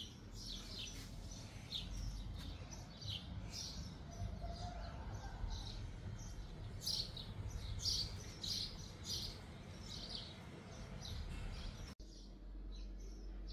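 Birds chirping: many short, repeated high chirps over a steady low rumble.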